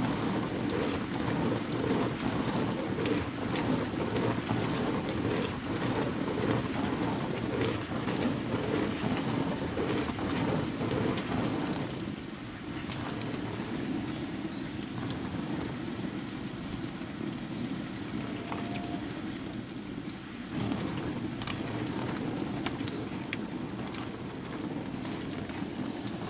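Bosch WAN28220FF washing machine on a synthetics 40 °C cycle, its drum turning with water and laundry sloshing and splashing inside. The sloshing eases about halfway through and picks up again near the end, as the drum slows and then turns again.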